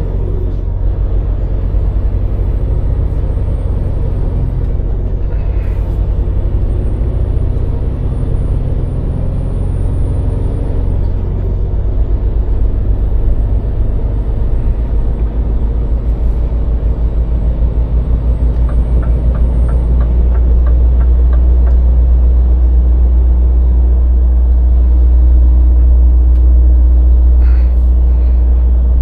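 Scania truck's diesel engine running under way, a deep steady drone that grows louder about two-thirds of the way through. A short run of quick, even ticks is heard just before it swells.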